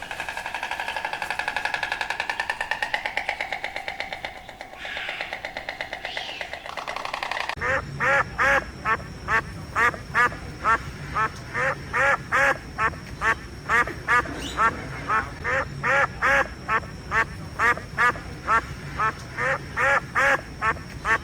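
Ducks quacking: first a fast, continuous chattering call, then from about seven seconds in a long series of loud quacks, evenly spaced at about two a second.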